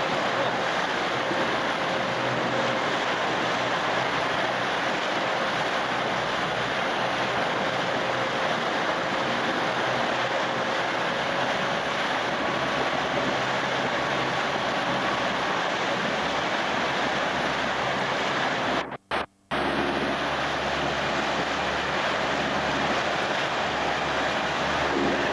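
Steady rush of wind and water noise from a moving motorboat, with no break in its level; the sound cuts out for a moment about three-quarters of the way through.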